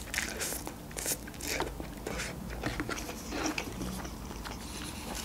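Close-miked eating sounds: instant noodles slurped in off a fork and then chewed, with scattered wet mouth clicks and smacks.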